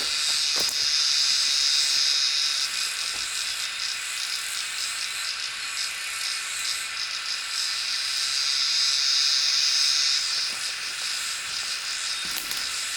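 Insects buzzing in a steady high-pitched chorus that swells louder twice.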